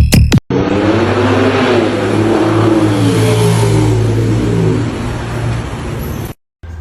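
A car engine revving, its pitch rising and falling twice, after a hard cut from electronic dance music with a heavy beat. The engine sound cuts off abruptly near the end.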